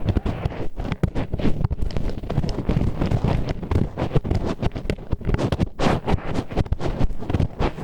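Disposable wooden chopsticks scraping and rubbing against an ASMR microphone's ear, ear-cleaning style: a dense, unbroken run of close, gritty grinding strokes.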